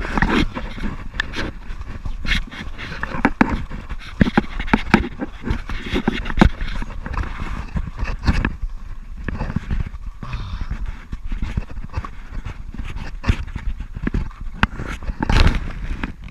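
Heavy, ragged breathing close to the microphone, broken by irregular knocks and bumps.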